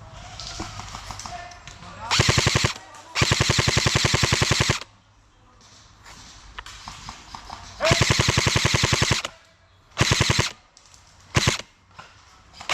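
Airsoft electric rifle (Specna Arms SA-H08) firing full-auto: five bursts of rapid, evenly spaced shots, the longest about a second and a half and the last very short.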